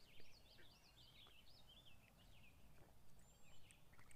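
Faint birdsong: a quick run of chirping notes that rise and fall, thinning out after about two seconds, with a short high thin whistle later on.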